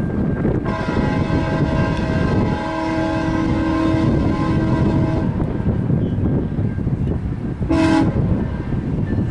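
Diesel locomotive air horn sounding a long chord of several notes, then a short blast near the end, over the continuous rumble of a train.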